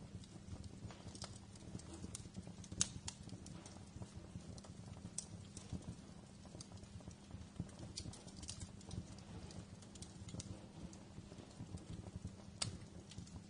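Wood fire crackling: irregular sharp snaps and pops over a faint low rumble of burning logs, with two louder pops, one about three seconds in and one near the end.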